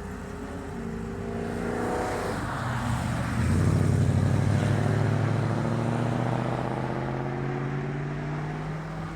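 Ford Fairlane pulling away under acceleration, its engine rising in pitch for a couple of seconds, then louder from about three and a half seconds in as it climbs slowly in pitch again, fading near the end.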